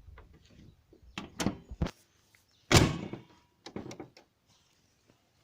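Car bonnet on a Nissan Wingroad Y11 being lowered and slammed shut: a few light knocks, then one loud metallic slam a little under three seconds in, followed by a lighter clunk about a second later.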